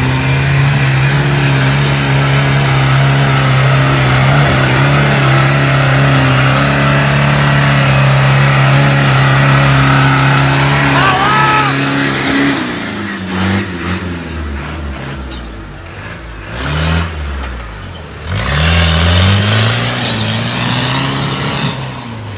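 Off-road 4x4's engine and exhaust held at high revs for about twelve seconds. The revs then drop, and the throttle is blipped several times, each rev rising and falling, with a longer rise near the end.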